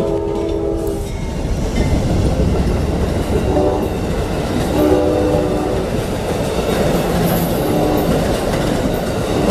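Amtrak passenger train passing close by through a grade crossing: a steady rumble and clatter of wheels on the rails. The locomotive's multi-note horn chord sounds, with one blast ending about a second in and shorter blasts around four, five and eight seconds.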